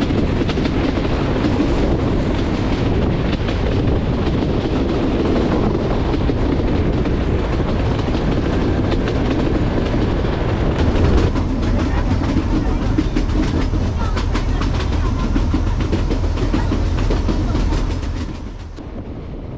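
Kangra Valley Railway 2 ft 6 in narrow-gauge train running along the track: a steady rumble of the coach's wheels on the rails. From about halfway, a rapid clickety-clack joins it as the wheels pass over rail joints. Near the end the sound drops to a quieter run.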